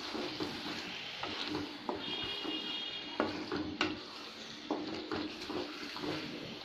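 Raw chicken pieces sizzling in oil and spice paste in an aluminium pot, stirred with a wooden spatula that scrapes and knocks against the pot every second or so.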